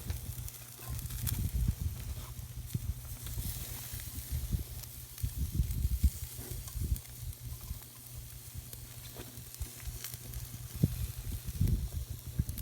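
Campfire crackling with scattered sharp pops and a hiss, over a low rumble of wind on the microphone.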